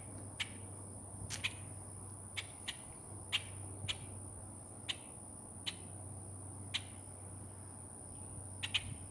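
Insects trilling steadily at a high pitch, with short sharp chirps scattered irregularly through it, a few coming close together.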